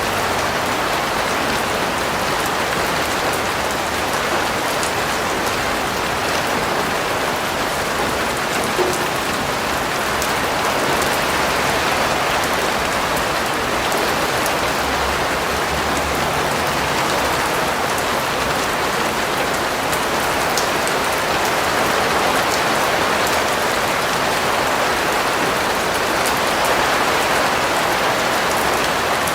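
Steady rain falling, with a constant hiss of drops and fine patter of individual drops striking a surface.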